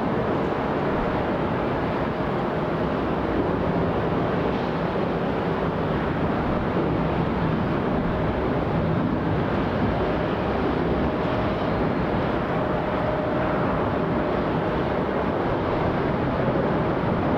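Jet engine noise from an Airbus A321-231 with IAE V2500 engines arriving to land, a steady rushing sound with a faint whine that comes in for a few seconds past the middle.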